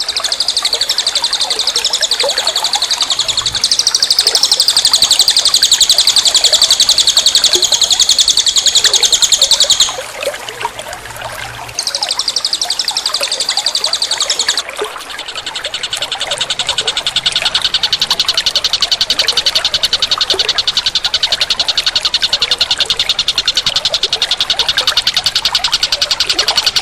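A bird's fast, high-pitched buzzing trill. It runs for about ten seconds, breaks off, returns briefly, and then carries on a little lower in pitch.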